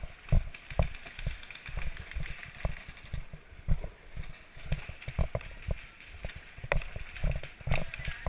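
Irregular dull thumps and knocks of footsteps and gear bumping against a body-worn camera, with a few sharper clicks.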